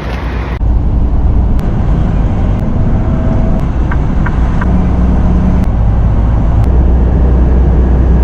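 Steady low drone of a semi truck's diesel engine and road noise, heard from inside the cab; it gets louder about half a second in, with a few faint ticks over it.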